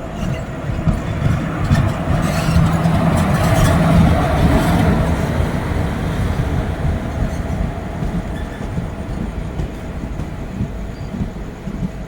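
Passenger train running on the rails: a steady rumble of wheels, growing louder to a peak about four seconds in and then easing off, with a run of sharp clicks around the loudest part.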